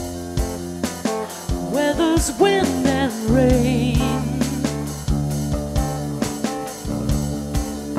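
A small band playing a song's instrumental passage: strummed guitar over a steady beat, with a wavering melody line held about three seconds in.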